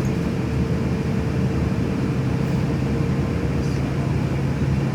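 Steady low rumble of a running vehicle engine, with a constant hum.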